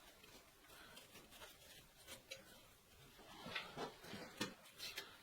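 Faint scratching and rubbing strokes by hand, a few short louder ones coming close together about three to four and a half seconds in.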